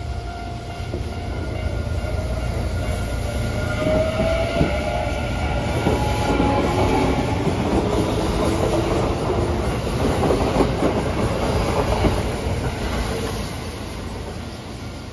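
Kintetsu electric train pulling out of the station and passing close by: a rising motor whine as it picks up speed, then a long run of wheels clattering over the rail joints, fading near the end.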